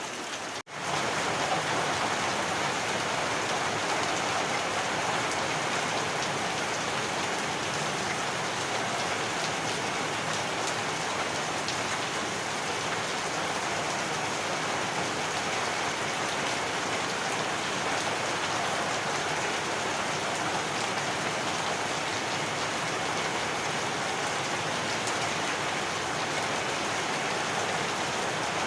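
Heavy rain falling in a steady, dense hiss. It cuts out for an instant under a second in, then resumes slightly louder.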